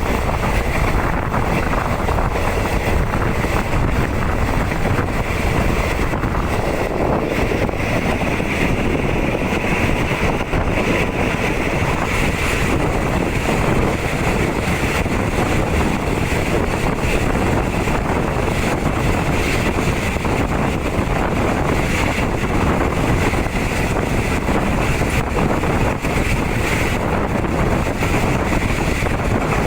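Steady rush of wind on the microphone over the rumble of a moving passenger train's running gear, heard from inside a third-class coach under way.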